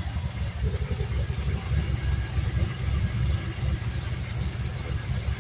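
A performance car engine built to run on 110-octane race fuel, idling with a steady low rumble.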